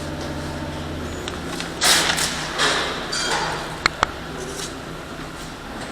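Workshop noises: a steady low hum, a brief noisy rush about two seconds in, and two sharp clicks a fraction of a second apart near the middle.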